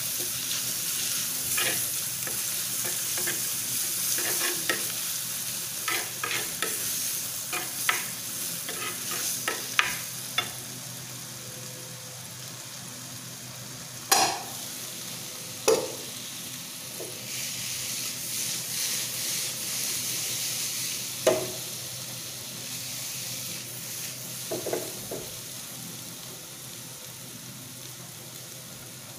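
Sliced onions with garlic and ginger sizzling as they fry in a clay pot, with a metal spoon scraping and tapping against the pot as they are stirred through the first ten seconds or so. Later come a few sharp metal clanks as the aluminium lid is handled and set on the pot, after which the sizzle is quieter.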